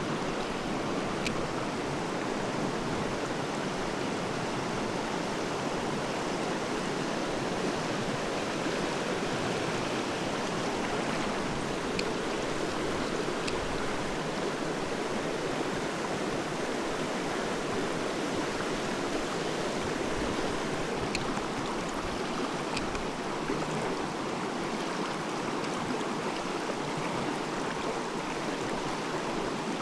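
Mountain stream rushing steadily over rocks, an even unbroken rush of water, with a few faint clicks on top.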